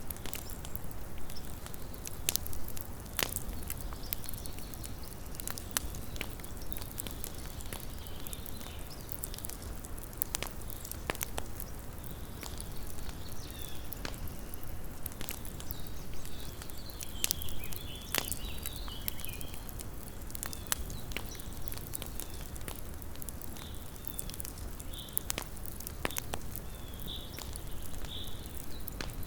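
Small wood campfire crackling, with irregular sharp pops and snaps over a steady low hiss. Faint short high chirps come in now and then in the second half.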